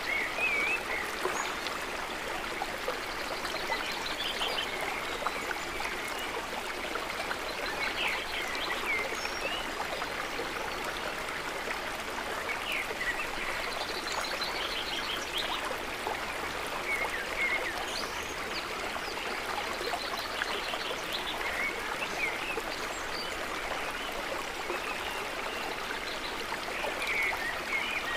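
Calm lake water trickling gently as a steady wash, with short high chirps and trills from small animals every few seconds.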